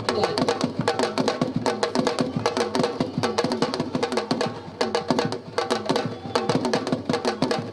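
Fast sabar drumming: many sharp, rapid slapping drum strokes overlapping in a dense rhythm, easing a little about five seconds in before picking up again.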